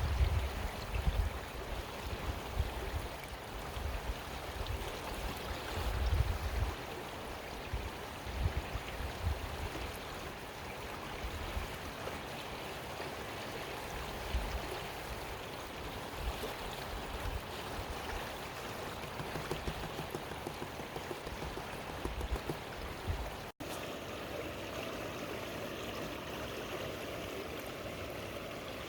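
Creek water running steadily over rocks, with irregular low rumbles on the microphone through the first two-thirds. The sound drops out for an instant about three-quarters of the way through and resumes slightly changed.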